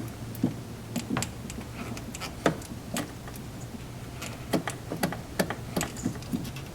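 Irregular light clicks and taps of small parts, clips and fasteners being handled and fitted by hand during reassembly in a cramped engine bay, over a steady low hum.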